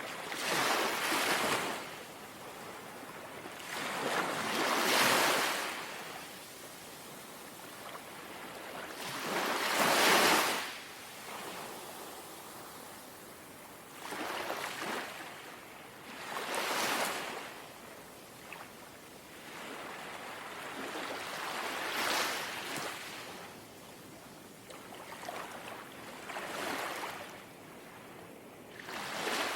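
Small, gentle sea waves lapping in. A soft wash swells and fades every four to six seconds, about seven times, and is loudest about ten seconds in.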